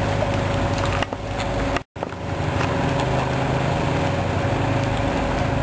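Petrol lawn mower engine running steadily, with rain falling. The sound cuts out for an instant about two seconds in.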